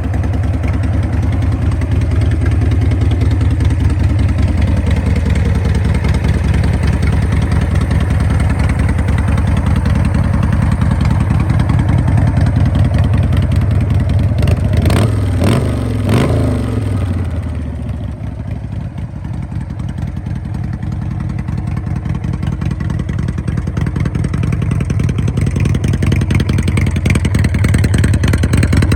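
2010 custom motorcycle's 1340 cc engine running, revved a couple of times about midway. It is then briefly quieter before building back up.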